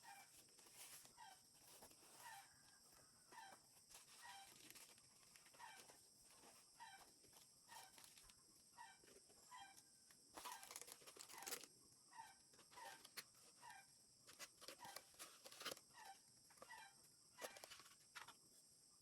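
Faint, steady series of short chirping calls, about one or two a second, over a constant high hiss, with a brief patch of rustling about halfway through.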